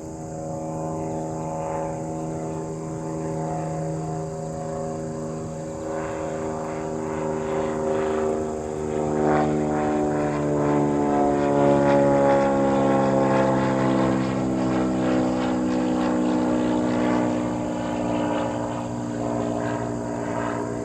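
Airplane flying past with a steady, pitched engine drone that drops in pitch about halfway through as it goes by.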